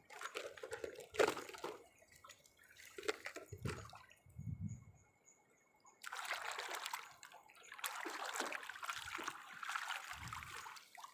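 Water splashing and trickling as muddy toy trucks are rinsed, with clicks and knocks of the plastic toys being handled. About six seconds in the water runs steadily for roughly four seconds.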